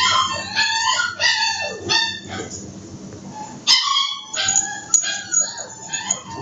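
Stray dogs whining and yelping in high, wavering cries, often overlapping. The cries pause briefly just before the middle, then resume after a sharp click.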